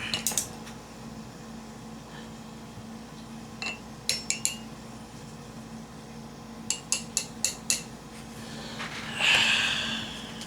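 Light ringing clinks of a paintbrush tapped against a hard paint dish, in quick groups of three to five, then a short swish near the end.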